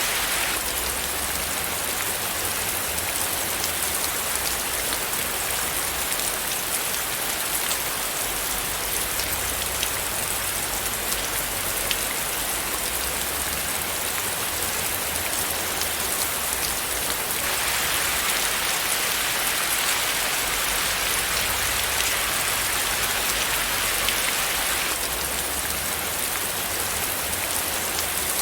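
Steady rain falling, a dense even hiss flecked with the ticks of individual drops striking a surface. The hiss grows slightly brighter for several seconds past the middle.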